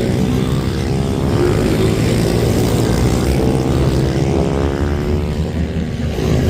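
Racing minibike engines revving hard on track, with several engine notes overlapping and rising and falling in pitch.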